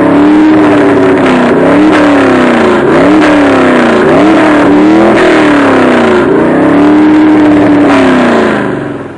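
383 stroker V8 of a customised Holden HQ ute revving repeatedly, the engine note climbing and falling back about six times, then fading out near the end.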